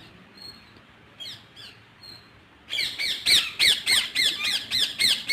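Parrots squawking: a few faint calls at first, then from about halfway a rapid run of loud, harsh calls, several a second.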